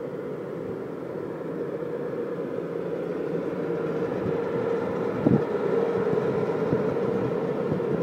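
A regional passenger train of coaches and an electric locomotive running past on the rails: a steady rolling rumble with a held mid-pitched tone, growing louder as the locomotive comes by, and one sharp knock of the wheels about five seconds in.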